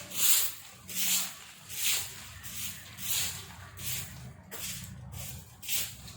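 Broom sweeping fallen leaves in steady, even strokes, a swish about every three quarters of a second.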